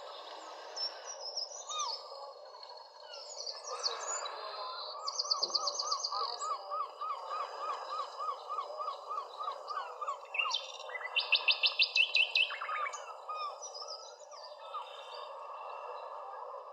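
Several songbirds singing and calling over a steady background hiss. A low note repeats about three times a second through the middle, and two quick high trills stand out, the louder one a little past halfway.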